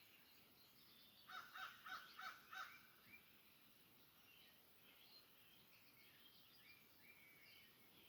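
Outdoor birdsong: several small birds chirping and whistling on and off. About a second in, one bird gives a quick run of about six louder calls.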